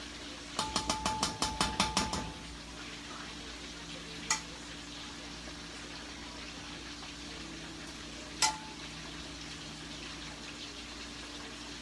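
A metal utensil stirring a pot of rice and beans, knocking quickly against the pot's side about nine times with a ringing clink, then two single clinks later, over a steady low hiss.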